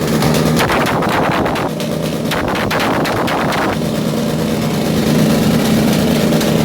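Motorcycle engine revved hard against its rev limiter, with rapid cracks and pops through the first few seconds. From about four seconds in it settles into a steadier high-revving tone.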